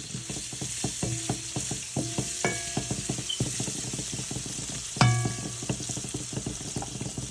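Onions sizzling in hot oil while a metal spoon stirs them, clicking and scraping against the pan, with one louder clank that rings about five seconds in.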